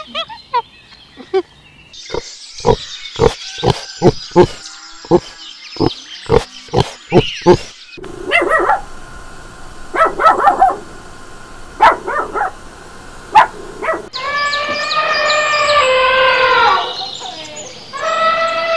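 A run of about a dozen sharp clicks, then a small dog yipping in short high calls four times, then longer calls that fall in pitch near the end.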